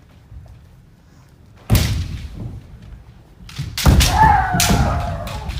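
Kendo bout in a hall: a sudden loud strike-and-stamp about a second and a half in, then a quick flurry of sharp impacts of bamboo swords and feet stamping on the floor, followed by a long, high kiai shout.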